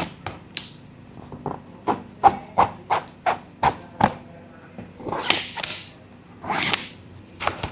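Shoe-cleaning handling sounds: a quick run of sharp taps, about three a second, then two longer swishing strokes and one more tap near the end.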